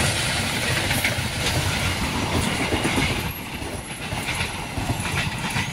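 KAI passenger train coaches rolling past close by: a steady rush of wheel-on-rail noise with occasional clacks. It eases off somewhat about three seconds in.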